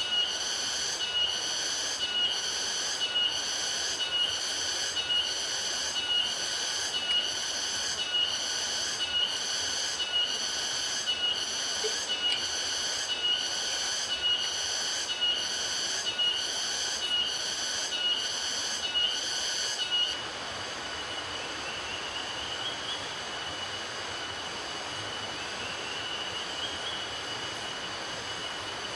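Insects calling in a forest, a high buzzing pulse repeating about once a second. About two-thirds of the way through the pulsing stops suddenly, leaving a steady thin high tone with a few short rising notes.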